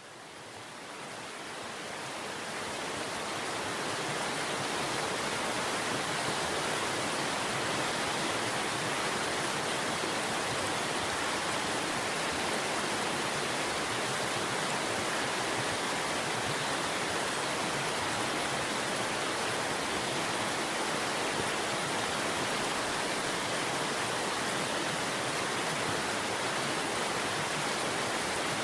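Steady rushing of running water, an even unbroken hiss, fading in over the first few seconds and then holding constant.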